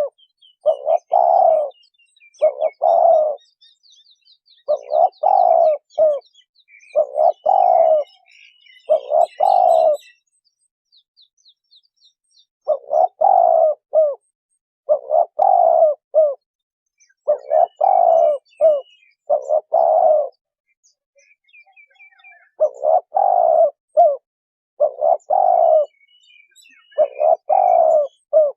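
Spotted dove cooing: a run of low, repeated coo phrases about two seconds apart, with two short pauses about ten and twenty seconds in. Faint high chirps of other birds are heard behind it.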